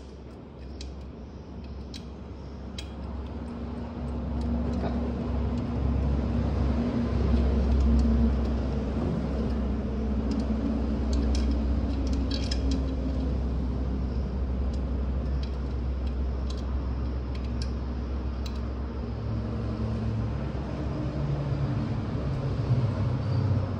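A steady low mechanical hum that swells about four seconds in and drops in pitch near the end, with scattered light clicks and clinks.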